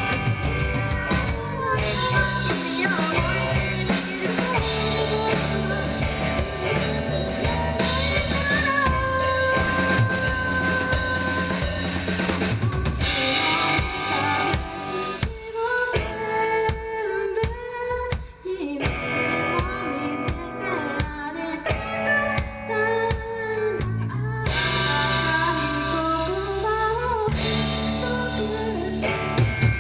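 Live three-piece rock band playing: electric guitar, bass guitar and drum kit. The cymbals drop out for a thinner, quieter stretch in the middle, then the full kit comes back in.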